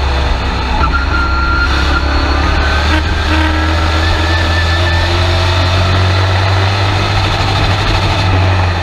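Race truck's engine running steadily, heard from inside the cab: a loud, continuous low drone with a faint whine that creeps up in pitch through the middle of the stretch.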